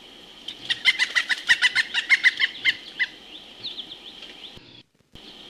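Pileated woodpecker giving its loud call: a rapid, even series of about fifteen notes, roughly six a second, followed by a fainter run of short chirps.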